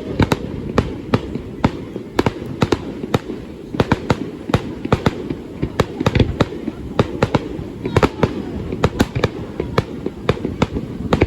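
Fireworks going off in rapid succession: sharp bangs and cracks, several a second, over a steady low rumble.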